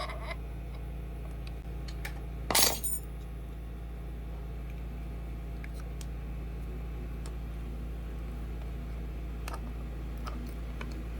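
A small metal object clinks loudly once on a hard surface about two and a half seconds in, with a few faint clicks of handling, over a steady low hum.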